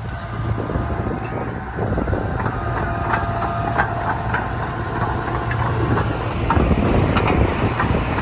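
Komatsu D31P bulldozer working, its diesel engine running steadily under load with repeated metallic clanks and squeaks from the tracks and blade, and a brief squeal about halfway through.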